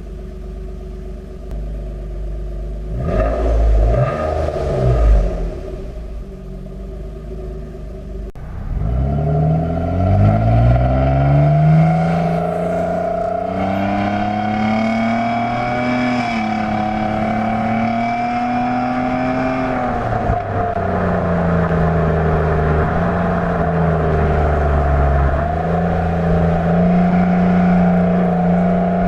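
2017 Nissan Maxima's 3.5-litre V6 exhaust with the resonator deleted, heard at the tailpipes. It idles, gives a couple of short revs a few seconds in, then pulls away at about eight seconds. The note rises and then holds fairly steady as the car drives on, dipping briefly about two-thirds of the way through.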